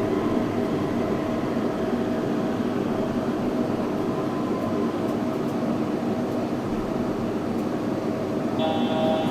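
Yurikamome 7300-series rubber-tyred automated train running, heard from inside the car: a steady rolling rumble with a steady electric motor whine. A high tone comes in near the end.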